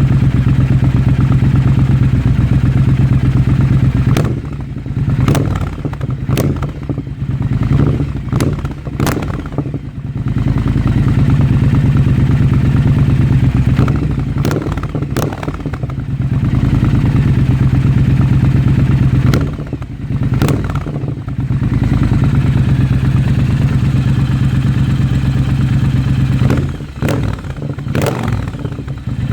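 2022 Triumph Bobber's parallel-twin engine through a baffled Delkevic exhaust, running at steady throttle in several spells of a few seconds each. Between them it eases off four times into a quieter, uneven burble with sharp pops and crackles.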